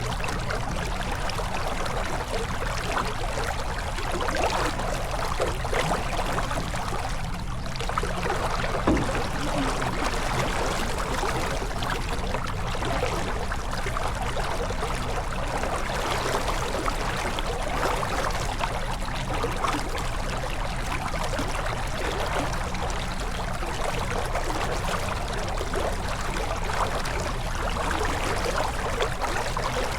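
Water rushing and splashing along the hull of a J/24 sailboat under sail, a steady wash over a constant low rumble.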